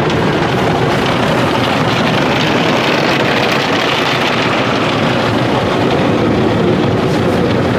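Automatic car wash working over the car, heard from inside the cabin: a loud, steady rush of water spray and washing machinery against the body.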